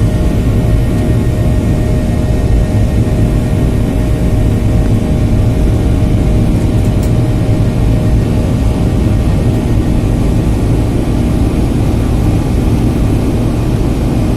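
Cabin noise of a Boeing 737-800 during takeoff: a steady low rumble from its CFM56-7B engines and airflow, with a few steady engine tones on top.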